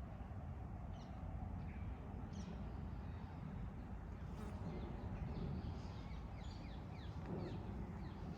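Small birds chirping: many short, quick downward-sweeping calls, busiest in the second half, over a steady low background rumble.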